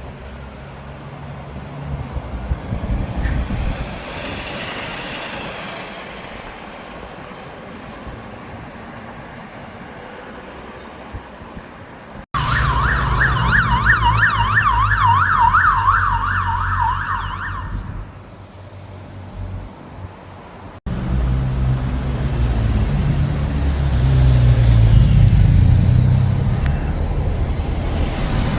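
Road vehicle and coach engines running, with heavy low rumble. In the middle, a fast warbling emergency-vehicle siren sweeps up and down about four times a second for roughly five seconds over the engine noise.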